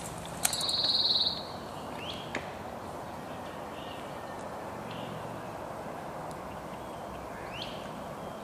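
A bird's loud buzzy trill lasting under a second, followed by a couple of short rising chirps a few seconds apart, over steady outdoor background noise.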